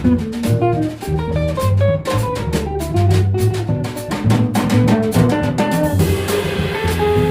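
Jazz trio of guitar, bass and drum kit playing: quick single-note guitar lines over a moving bass line and steady cymbal time, with a cymbal crash about six seconds in.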